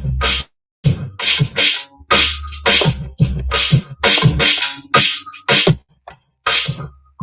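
A hip-hop beat playing back from a Native Instruments Maschine MK3: choppy drum hits over a deep sub-bass, with a short pitched sample. It stops briefly just under a second in and again near the end, then starts again.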